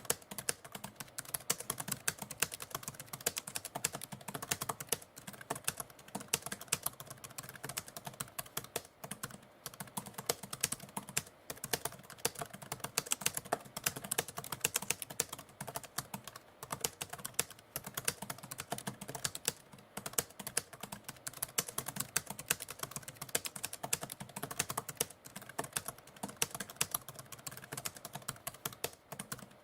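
Manual typewriter being typed on steadily, a fast irregular run of key strikes with short pauses between bursts.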